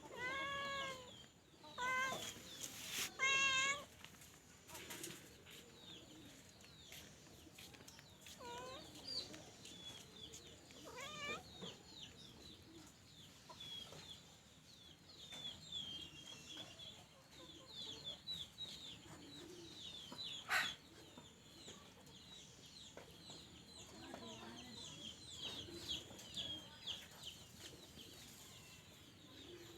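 Domestic cat meowing, several drawn-out meows in the first few seconds and weaker ones about nine and eleven seconds in. Many short high chirps run through the rest, with a single sharp knock about twenty seconds in.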